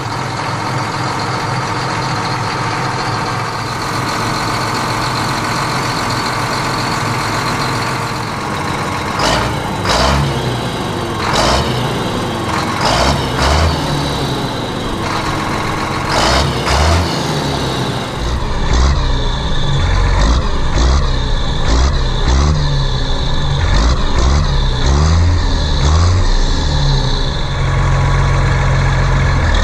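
Tractor engine running, with sharp surges partway through and a heavier low throb in the second half.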